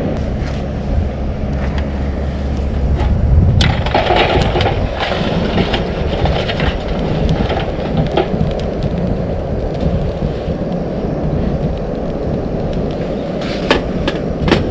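Wood campfire crackling as it catches, with many sharp pops and snaps. A low rumble runs under it for the first few seconds.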